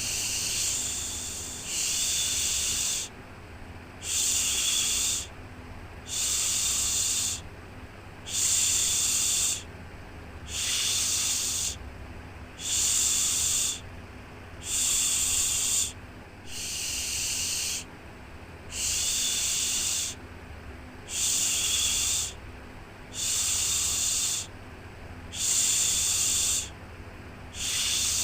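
Soothing 'shhh' shushing for a baby, repeated about every two seconds, each shush about a second and a half long, over a faint low steady hum.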